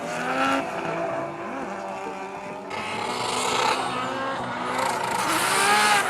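Drift car engines revving up and down hard, with tyre noise swelling about three seconds in and again near the end.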